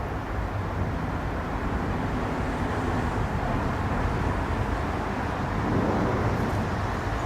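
Jet airliner engines rumbling, a steady roar that swells a little toward the end.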